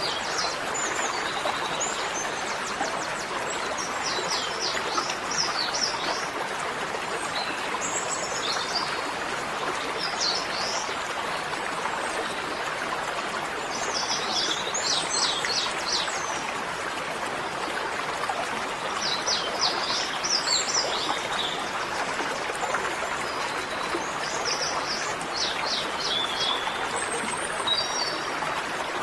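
Birds chirping in short bursts of quick, high notes every few seconds over a steady rushing noise.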